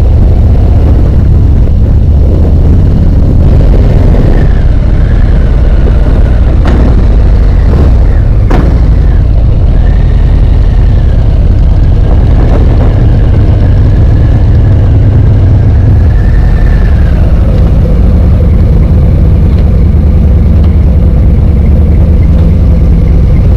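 Harley-Davidson V-twin motorcycle engine running loudly under way, with a thin wavering whistle over it through much of the middle.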